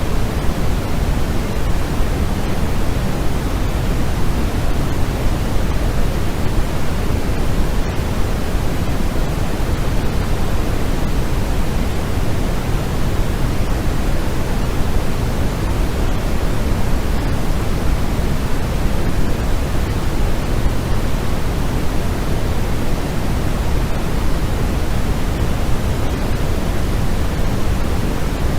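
Steady white-noise sleep track: an even, unchanging hiss weighted toward the low end, with no pattern or variation.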